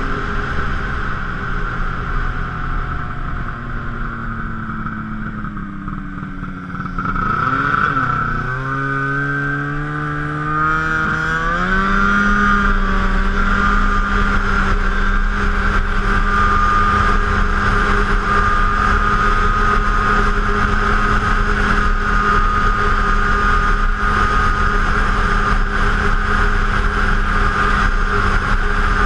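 Arctic Cat F7 snowmobile's two-stroke twin engine on the trail: it eases off for the first several seconds, then accelerates hard with a climbing pitch about a third of the way in and settles into a steady high-speed run.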